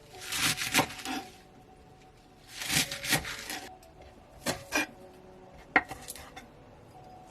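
Kitchen food-prep sounds: utensils scraping and rubbing against wood and dishes in three short bouts, then one sharp knock near the end.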